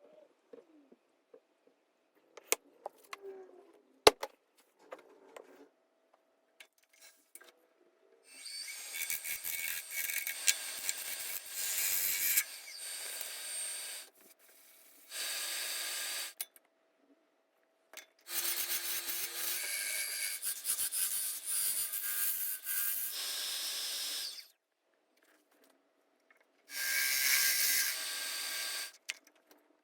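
A tool working wood in four bursts of a few seconds each, a high, hissing scrape or sanding sound, after several seconds of light clicks and knocks.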